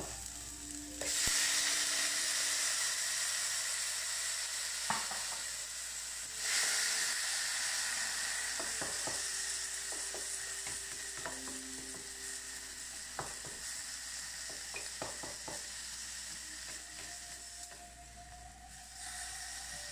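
Chopped tomatoes dropped into hot oil in a wok sizzle, the hiss jumping up suddenly about a second in and again about six seconds in, then slowly dying down. A wooden spatula scrapes and taps against the pan as they are stir-fried.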